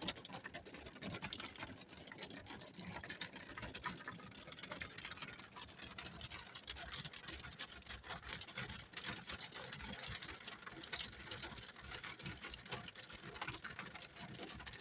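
Pea-size hail and rain pelting the roof and windshield of a Chevy Tracker, heard from inside the cabin as a steady dense clatter of small irregular ticks.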